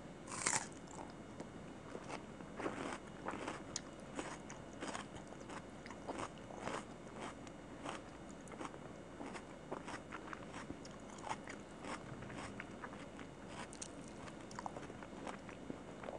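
Close-miked chewing of chicken curry and rice: a steady run of short wet mouth clicks and crackles, with a sharp crunchy bite about half a second in.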